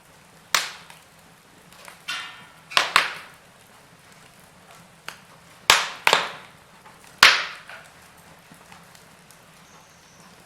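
Logs burning in a fireplace, crackling with about eight sharp, irregular pops over a faint steady background, including a quick cluster of crackles around two to three seconds in.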